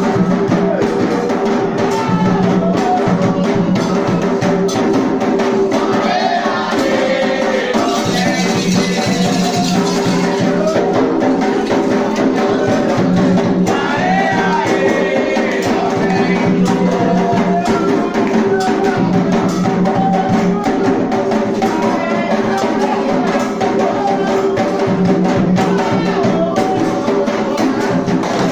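Ritual drumming with rattles and voices singing a chant, the drums keeping a steady, dense beat throughout.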